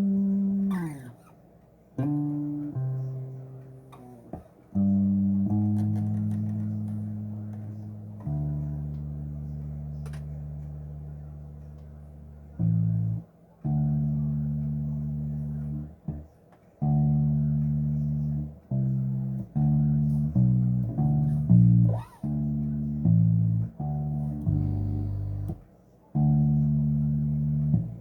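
Bass guitar played solo: single plucked notes left to ring and die away, with a slide down in pitch about a second in. The notes come quicker in the second half.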